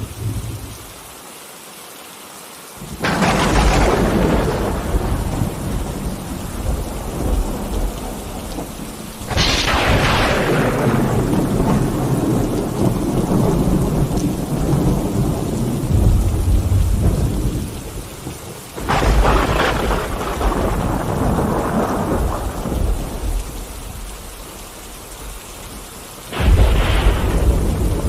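Steady rain with four claps of thunder, each breaking suddenly and then rumbling away over several seconds.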